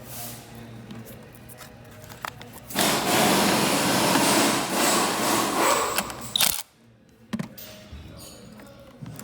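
A power tool runs for about three and a half seconds, starting about three seconds in and cutting off abruptly.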